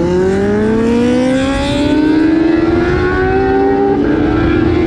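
Motorcycle engine pulling hard, its pitch climbing steadily for about three seconds and then holding. It is a sound a rider calls really lovely.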